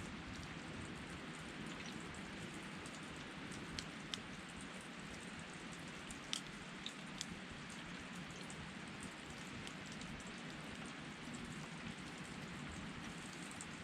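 Steady rush of a river, with a few sharp crackles and pops from a wood campfire around the middle.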